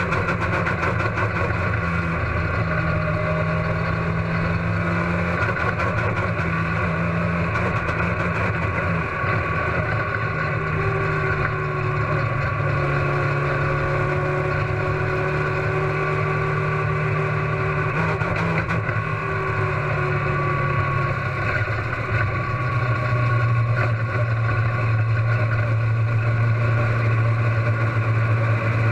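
Race car engine running with a misfire, its pitch stepping up and down a few times and settling lower near the end.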